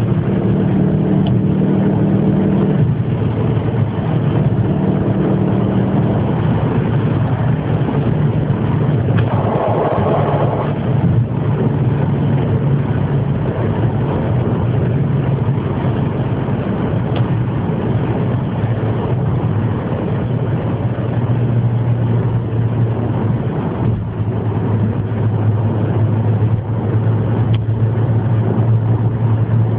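An engine running steadily at low speed with a deep, even hum. Its pitch settles a little lower partway through, and a short burst of higher-pitched noise comes about ten seconds in.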